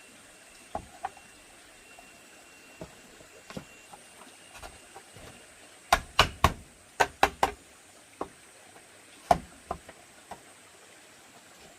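Sharp knocks of hand work on bamboo. Scattered light taps give way, about halfway through, to a quick run of about seven hard strikes in a second and a half, then two more strikes a little later. A faint steady high tone, like insects, runs underneath.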